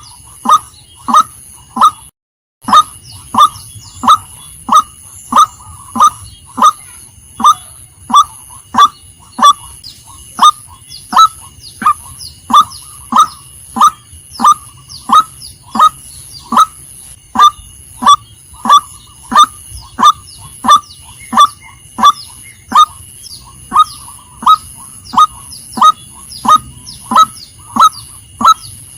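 Female white-breasted waterhen calling: one short, falling note repeated steadily about one and a half times a second. It breaks off for a moment about two seconds in.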